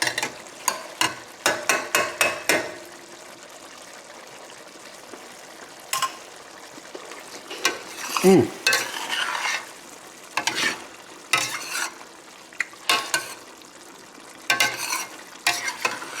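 Spoon stirring and scraping in a pot of simmering chicken and potato stew as its sauce thickens, in bursts of strokes with a steady low hiss between them.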